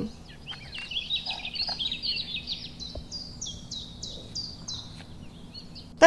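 Small songbird chirping: a quick twittering string of high chirps, then a run of about seven evenly repeated notes.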